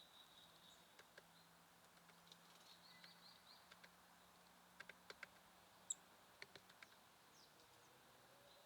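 Faint chirps and short trills of small songbirds at a feeder, with scattered sharp clicks and taps, most of them in a cluster past the middle. The loudest sound is one short high chip about six seconds in.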